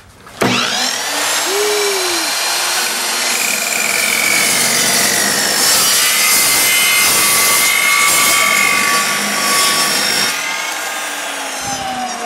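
Evolution EVO 380 metal-cutting chop saw starting with a sudden burst and a rising whine as the motor comes up to speed, then its blade cutting through a piece of metal with a steady loud whine. Near the end the cut finishes and the motor winds down with falling pitch.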